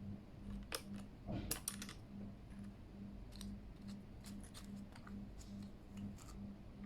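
Scattered plastic clicks and clacks from a Keychron K8 mechanical keyboard as its keys and keycaps are pressed and handled, bunched about a second in and sparser after.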